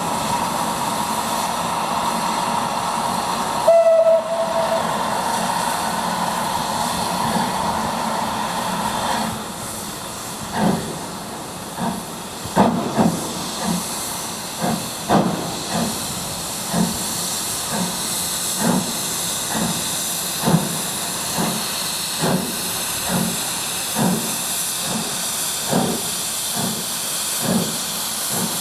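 Steam locomotive: steam hissing steadily, with a short whistle blast about four seconds in. Then, from about ten seconds, the slow, even exhaust chuffs of the engine getting under way, about one a second.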